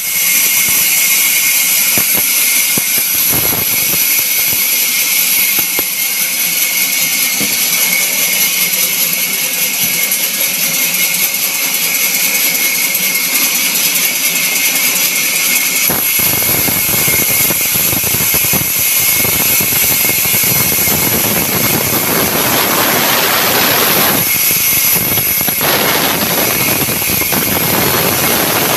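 Sawmill saw running loud and steady with a high whine as it cuts a log into sized timber. The sound grows fuller about sixteen seconds in.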